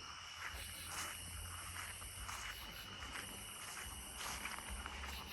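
Steady high-pitched chorus of crickets, with faint, irregular soft rustles and ticks over it.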